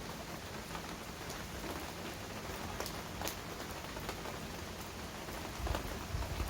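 Heavy rain falling steadily, with scattered sharper drops striking a surface. A low rumble comes up near the end.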